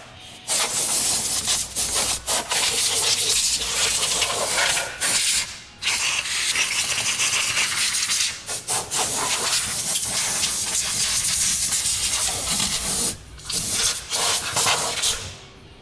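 A cleaning spray hissing in long bursts, stopping briefly every few seconds with a longer pause about six seconds in, then fading out near the end.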